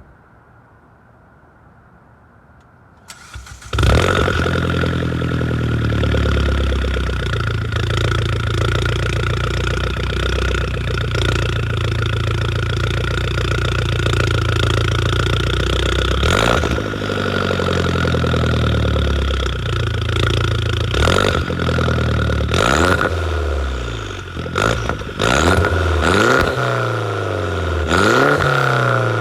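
2009 Mini Cooper S's turbocharged 1.6-litre four-cylinder starting through a catless downpipe and straight 2.5-inch glass-pack exhaust. The starter cranks briefly about three seconds in, the engine catches with a loud flare and settles to a steady idle, then is revved several times in the second half.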